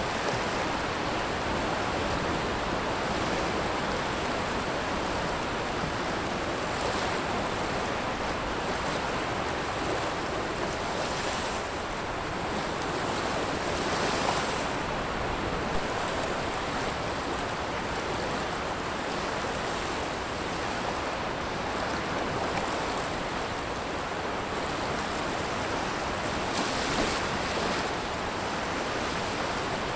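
Waves breaking and washing up a pebble beach in a steady rush of surf, swelling slightly about halfway through and again near the end.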